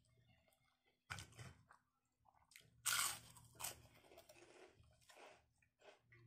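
A person chewing a mouthful of rice and side dish close to the microphone, with a string of crunching bites, the loudest about three seconds in.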